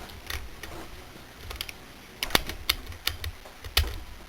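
Irregular sharp clicks and knocks of a socket-and-ratchet wrench being worked on the clutch nut of a small McCulloch chainsaw, a few seconds apart rather than in a steady run.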